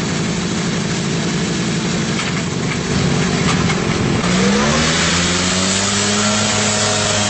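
Homebuilt ultralight aircraft's converted Kawasaki motorcycle engine running roughly, then revving up about four seconds in: its note rises and holds at a higher, smoother pitch.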